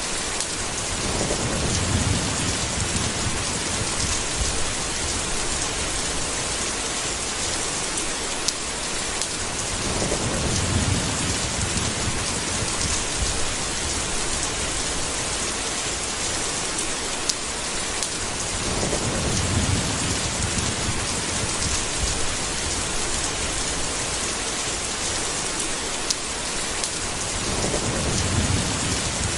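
Steady rainstorm: an even hiss of heavy rain with scattered sharp drop ticks, and low thunder rumbling four times, about every nine seconds.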